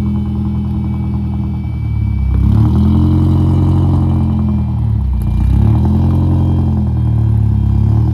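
2002 Audi A3 exhaust with the muffler cut off and a 4.5-inch tip, engine running. It idles at first, the revs rise slightly about two seconds in, drop back briefly near five seconds, then rise again.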